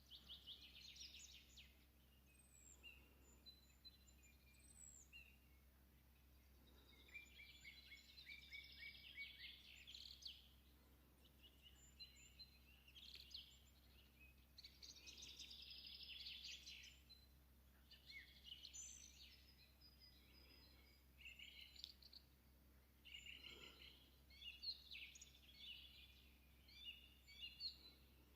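Faint birdsong: small birds chirping and trilling in quick runs of notes, with short pauses between phrases.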